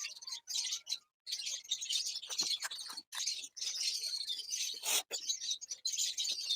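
Many small birds chirping and chattering continuously, with a few sharp clicks or knocks, the loudest about five seconds in.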